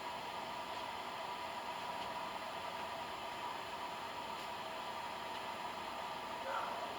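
Electric fan blowing, a steady whoosh with a faint steady hum.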